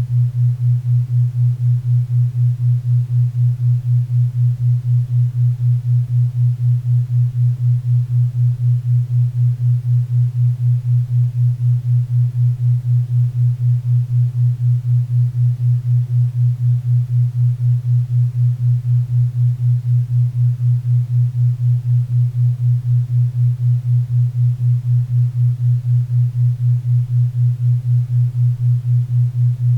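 A synthesised low tone pulsing steadily in a 4 Hz theta-wave beat, over faint pink and brown noise.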